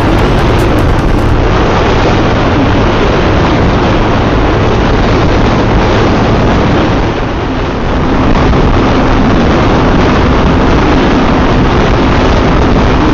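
Wind rushing over the microphone with the road and engine noise of a Yamaha FZ V3 motorcycle riding at highway speed, loud and steady, dipping briefly about seven seconds in.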